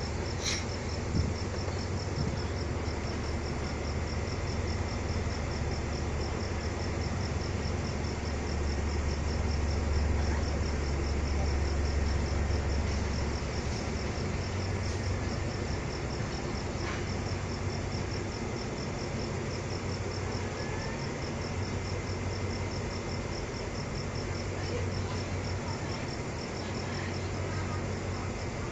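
Insect chirping in a fast, even high-pitched pulse, over the low steady rumble of a stopped train's idling engine, which swells for a few seconds near the middle.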